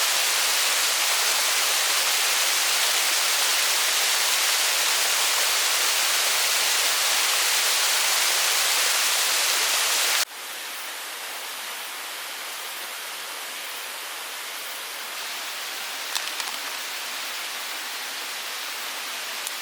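Forest stream rushing steadily. About halfway through it cuts abruptly to a quieter, softer rush, with a few faint clicks a little later.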